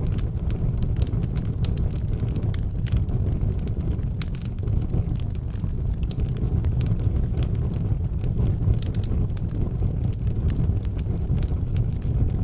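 Fire burning in a fireplace, crackling and popping with many sharp irregular snaps over a steady low rumble.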